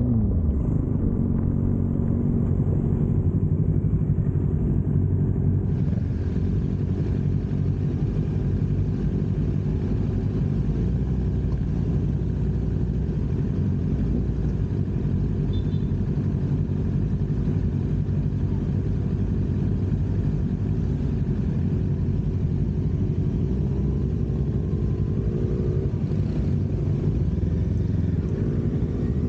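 Motorcycle engine running steadily under way, its exhaust note holding an even pitch after a brief dip and rise in revs at the very start.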